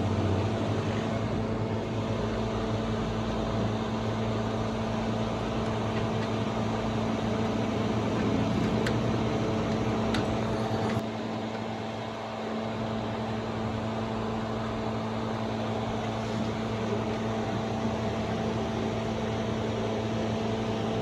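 Steady mechanical hum made of several held tones over a background of noise, dipping slightly in level about eleven seconds in.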